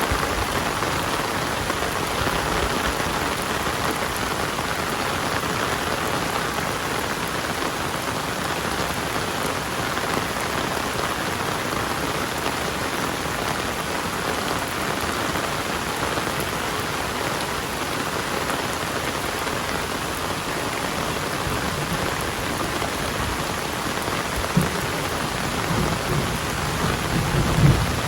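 Heavy rain falling steadily, an even hiss of rain on surfaces. A low rumble and a couple of brief thumps come in near the end.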